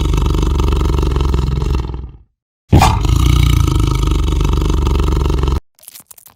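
A lion roaring twice: a long, loud, rough roar that fades out about two seconds in, then a second one that starts a moment later and cuts off abruptly near the end.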